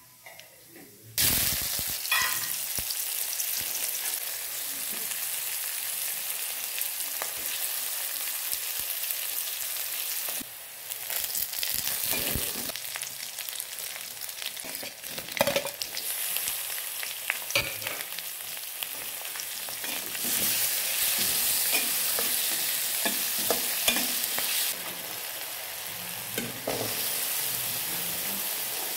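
Hot oil sizzling in an aluminium kadai as the tempering and vegetables fry: mustard seeds, then chopped onions and curry leaves, then diced carrots and green beans. A steady frying hiss starts suddenly about a second in and jumps in level a few times, with scattered sharp clicks and scrapes of stirring over it.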